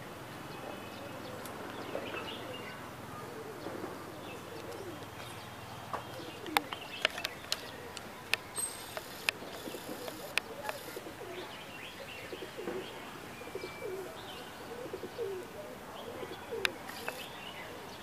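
A flock of birds calling: short low notes repeat throughout, with higher chirps scattered among them. A quick run of sharp clicks comes between about six and eleven seconds in.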